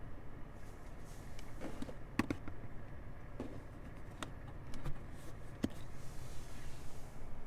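Scattered sharp clicks and taps inside a 2020 Toyota Sienna minivan's cabin, about half a dozen, over a low steady hum.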